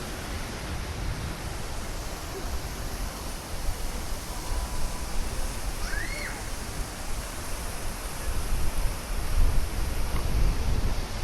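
Rushing wind on the microphone of a moving bicycle, with low buffeting gusts that grow stronger near the end. A single brief high chirp rises and falls about six seconds in.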